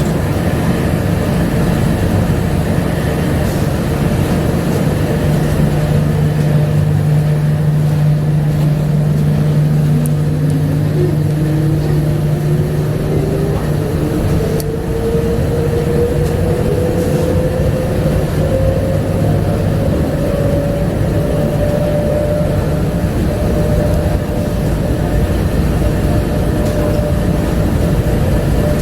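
Bombardier APM100 rubber-tyred people-mover running, heard from inside the car: a steady rumble of tyres and running gear. An electric traction whine rises in pitch from about a third of the way in as the train picks up speed, then levels off.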